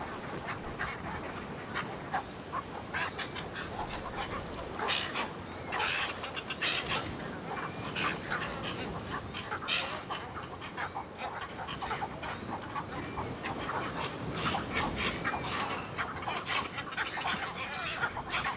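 A roost of cattle egrets calling as they crowd onto mangrove branches: a dense, unbroken chatter of many short overlapping calls, with louder outbursts about five, six and ten seconds in.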